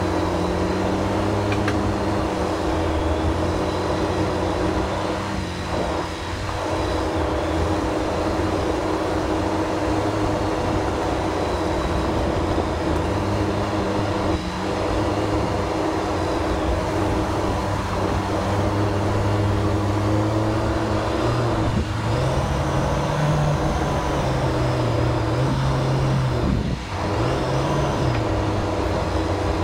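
Jeep Wrangler JL engine running at low trail speed while off-roading, its note wavering gently and rising a little near the end, with a few brief knocks along the way.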